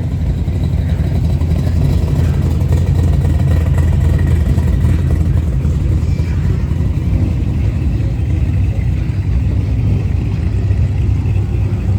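A vehicle engine running, with a steady low rumble.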